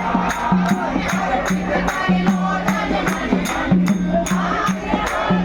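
Hindu devotional music: a group of voices singing a bhajan together over a steady beat of hand percussion, about three strokes a second.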